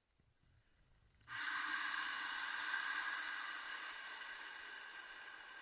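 Water jetting from a garden-hose spray nozzle into a plastic bucket: a steady hiss and splash that starts suddenly about a second in and slowly grows quieter toward the end.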